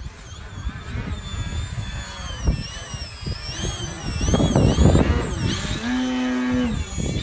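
Electric model airplane's motor and propeller whining high, the pitch wavering up and down as the plane circles, with wind buffeting the microphone. About six seconds in, a loud steady lower-pitched tone sounds for just under a second.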